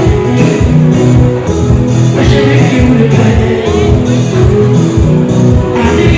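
Live band music over a concert PA system, loud and poorly mixed, with steady bass and guitar lines; a lead singer's voice comes in about two seconds in.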